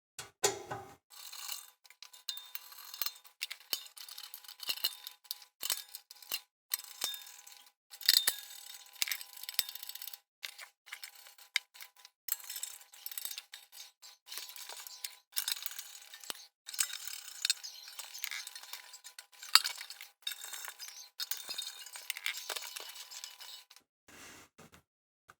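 Metal toaster parts clinking, tapping and scraping as they are handled and fitted back together, with many short, irregular clinks.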